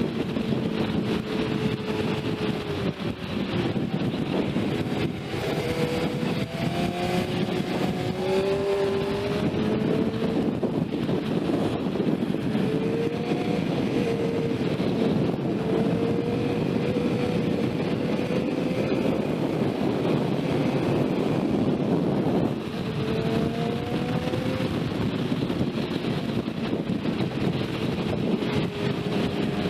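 Sport motorcycle engine at speed, its pitch climbing and dropping again and again through throttle and gear changes, over steady wind rush, with a brief drop in level about 22 seconds in.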